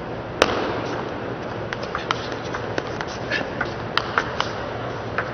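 Table tennis ball being struck by rackets and bouncing on the table: a series of sharp, irregularly spaced clicks, the loudest about half a second in, over a steady hall murmur.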